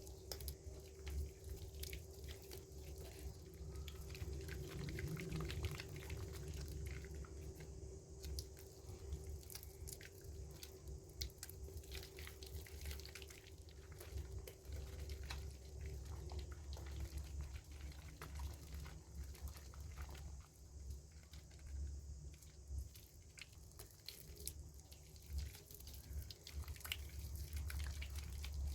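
Soaked bar soap and its lather worked by hand: wet squishing with a dense, irregular crackle of small pops and clicks. A low steady hum lies underneath.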